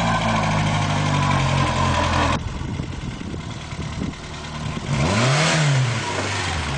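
Peugeot 5CV's engine running as the car drives. It cuts off abruptly about two and a half seconds in, and a little past the middle the engine note rises and falls once.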